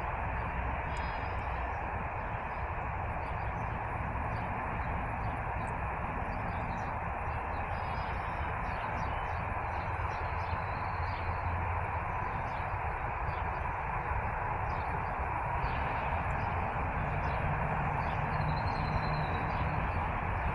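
Steady rumbling, hissing background noise with faint, scattered bird chirps over it.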